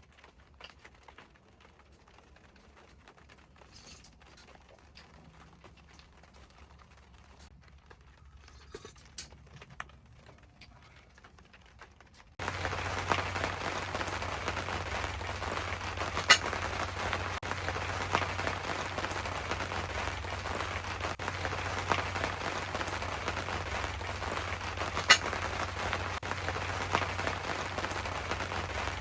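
Faint scattered ticks, then an abrupt switch to heavy rain drumming on tent fabric: a dense, steady patter with a low rumble under it and an occasional sharp louder drop.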